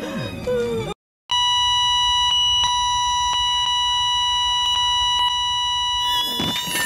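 Loud, steady electronic beep tone, held without a break for about five seconds after a short silence, with faint clicks under it. Near the end rising squealing sweeps cut in.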